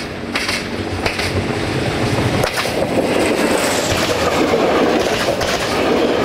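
VT 614 diesel multiple unit passing close by: its running gear rumbles and wheels click over the rail joints, the sound growing louder as the cars sweep past.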